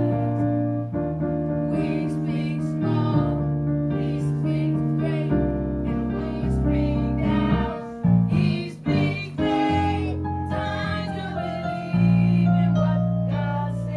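Live gospel church music: long held keyboard chords over a moving bass line, with drum and cymbal hits, and possibly singing mixed in.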